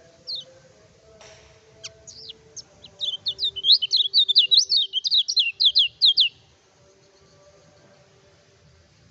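Kecial kuning white-eye singing: a few scattered high chirps, then a fast, loud run of sharp sweeping notes, several a second, lasting about three seconds and stopping abruptly.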